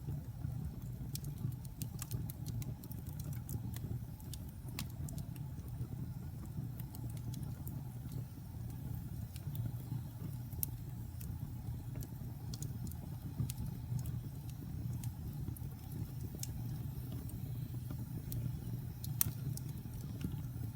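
Fire burning in a fireplace: a steady low rumble of flames with scattered sharp crackles and pops, one louder pop near the end.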